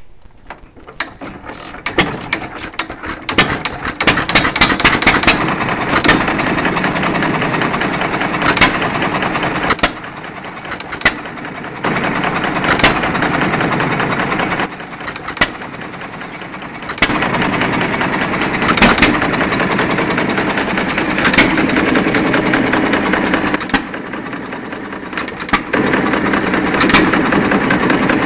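1930 John Deere Model E single-cylinder hit-and-miss engine running, picking up over the first few seconds, then firing with a sharp bang every couple of seconds and coasting on its flywheels in between.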